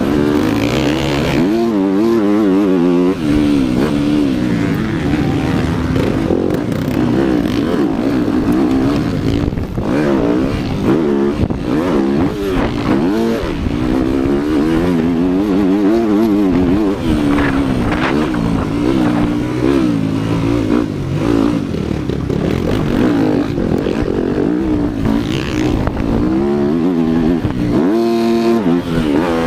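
Motocross dirt bike engines running hard, their pitch rising and falling over and over as the throttle is opened and closed.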